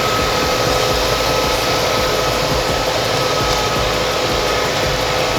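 Tractor engine running steadily: a constant noise with a faint steady whine through it.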